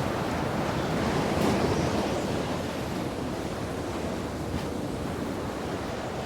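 Surf washing in a steady rush, swelling a little after about a second and then slowly fading.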